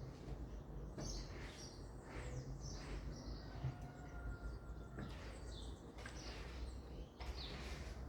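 Small birds chirping in short scattered calls and a few thin whistled notes over a steady low rumble of outdoor background noise; no rooster crows here.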